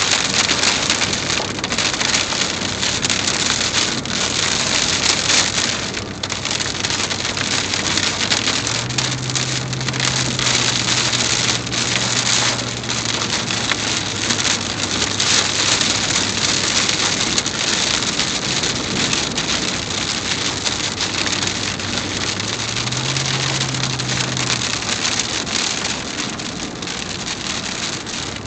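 Heavy rain pouring steadily as a dense hiss. Underneath it a low steady hum steps up in pitch for a few seconds, twice.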